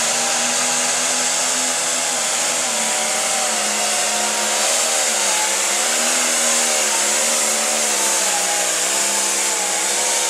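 Light pro stock pulling tractor's turbocharged diesel engine running hard under load, its pitch sagging and climbing back again and again, with a steady high turbo whine over it.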